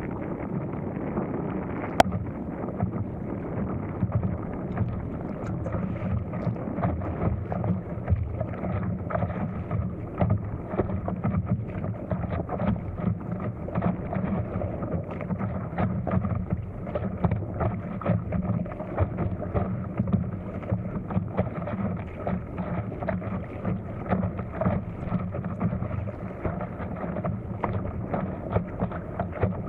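Wind buffeting the microphone over water slapping and splashing against an inflatable stand-up paddleboard moving through choppy water. A single sharp click about two seconds in.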